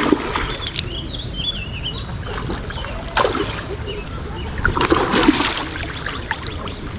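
Light splashing and trickling of water, with a few louder splashes about three and five seconds in.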